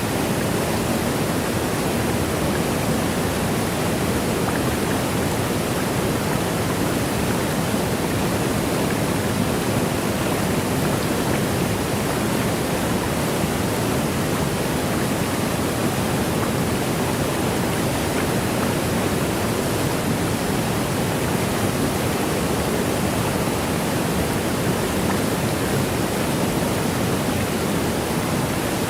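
Steady rushing of a waterfall, an even unchanging noise weighted toward the low end.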